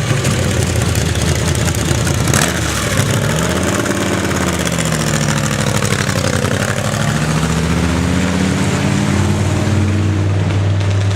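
Car engine running, its pitch falling and rising several times as it revs and slows, settling into a steady low hum near the end.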